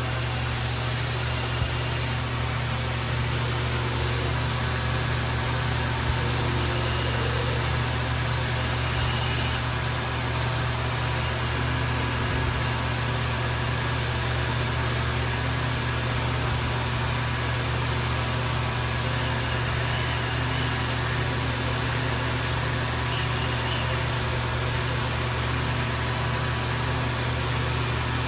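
Shop machine running steadily, a constant low hum with an even hiss above it, typical of an electric motor such as a grinder or forge blower.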